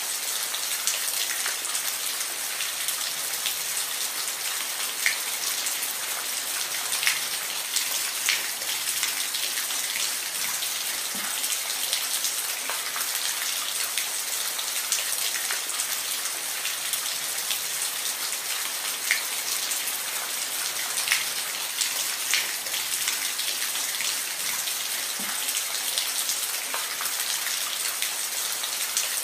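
Steady rain falling, a dense hiss with scattered louder drop ticks on a nearby surface.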